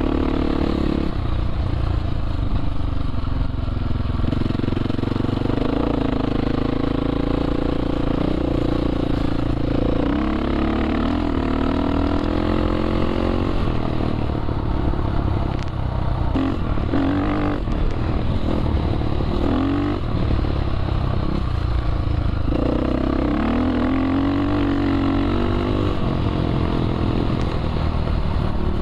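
Dirt bike engine running on the move, its pitch repeatedly climbing and then dropping with throttle and gear changes.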